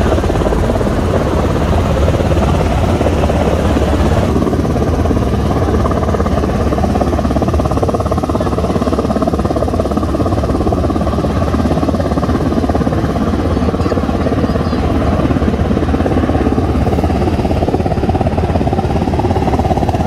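Helicopter rotors and engine running steadily and loudly, a dense, unbroken drone that loses a little of its upper hiss about four seconds in.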